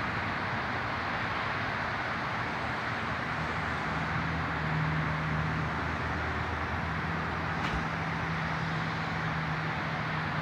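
Steady outdoor traffic noise, with a low engine hum from a vehicle coming in a few seconds in and holding, and one brief click about two-thirds of the way through.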